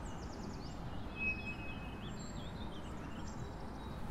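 Small birds chirping faintly, a scatter of quick high chirps and a brief whistled note, over a steady low background rumble.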